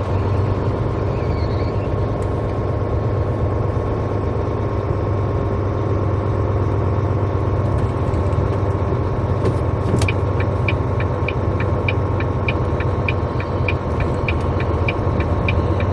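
Semi-truck's diesel engine idling steadily, heard inside the cab as a low hum. About ten seconds in a click is followed by a regular ticking, about three a second.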